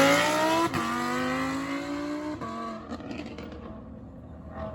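A car accelerating hard away through the gears: the engine note climbs, drops at a shift about a second in, climbs again and drops at another shift a little after two seconds, then fades into the distance.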